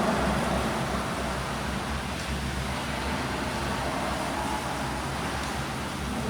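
Swimming pool ambience: a steady low rumble with an even hiss of moving water.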